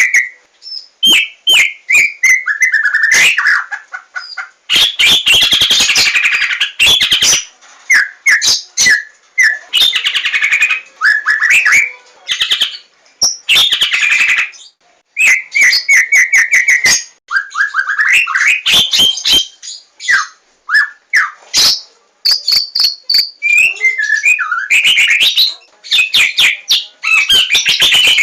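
Javan white-rumped shama singing a fast, varied song: whistled phrases and quick runs of repeated notes mixed with sharp clicks and rattling chatter, in bursts separated by short pauses.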